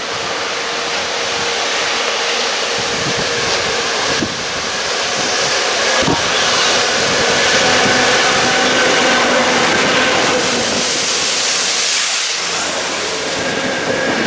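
Train passing close by: steady rail and wheel noise with a hiss, and a couple of sharp knocks a few seconds in.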